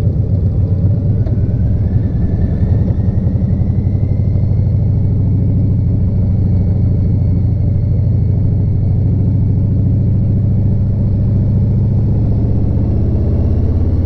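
Harley-Davidson Street Glide Special's V-twin engine running steadily while riding, an even low rumble, with a faint whine rising slightly in pitch over the first few seconds.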